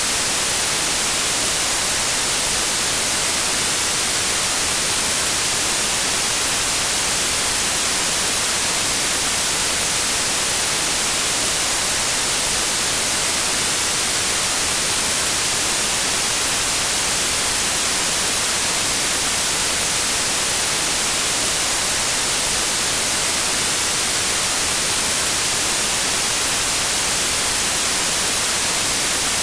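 Steady electronic white noise, an even hiss with no change in level, weighted toward the high end.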